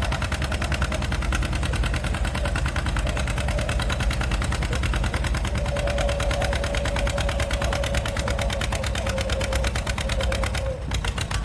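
Antique farm tractor engine running hard under load, pulling a transfer sled, with a rapid, even exhaust beat. A steady whine joins about halfway, and the engine note drops off near the end as the run ends.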